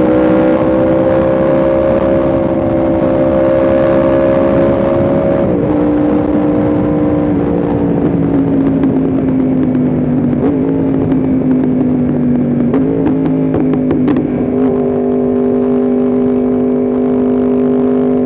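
Yamaha R1M's crossplane inline-four running at steady riding revs. The note rises slightly, drops about five seconds in, sags gradually, then settles at a lower steady pitch near the end.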